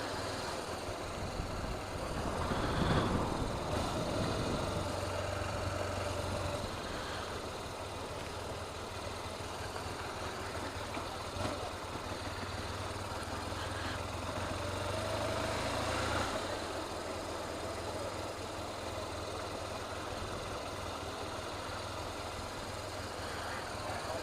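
Motorcycle engine running at low speed, with a steady low hum that swells briefly about three seconds in and again around fifteen seconds in.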